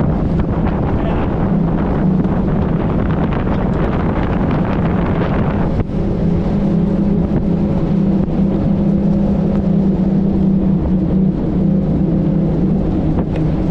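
A 90 horsepower Evinrude outboard motor driving a small inflatable boat, running at a steady pitch under the rush of wind on the microphone and water along the hull. About six seconds in the rushing eases and the engine's steady hum stands out more clearly.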